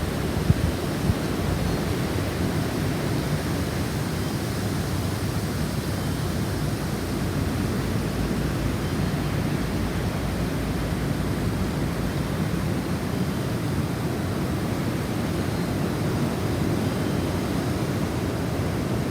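Snowstorm wind blowing steadily: a continuous low rushing noise with its weight in the low end and no distinct gusts or tones.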